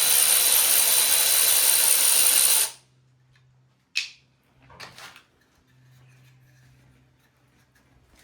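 A power tool runs steadily for about three and a half seconds and cuts off suddenly. A second or so later comes a single sharp click, then a brief fainter rattle.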